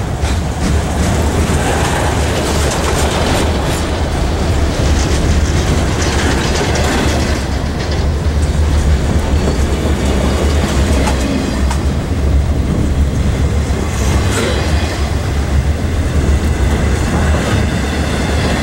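Freight train of autorack cars rolling past, a steady low rumble with repeated clicks of wheels over rail joints.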